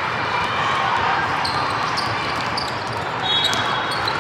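Basketball game in a gym: a ball bouncing on the court and short high squeaks from the floor over a steady background of hall chatter.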